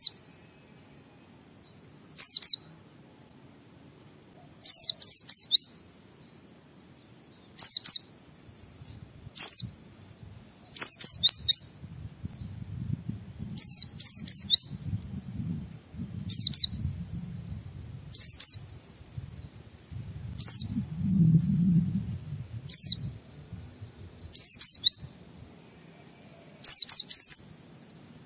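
A white-eye (pleci) calling in short bursts of high, sharp chirps that sweep downward, one to four notes at a time, every second or two. A faint low rumble sits underneath through the middle.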